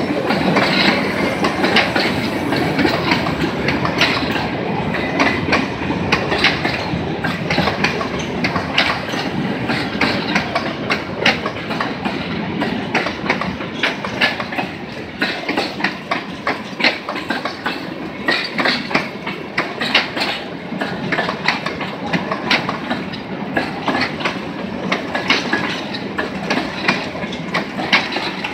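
Freight train wagons rolling past close by, first boxcars and then covered grain hopper cars. The wheels make a steady rumble with many sharp clicks as they cross the rail joints.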